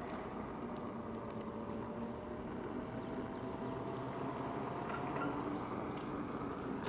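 Steady noise of a vehicle in motion, with a faint whine that rises slowly in pitch.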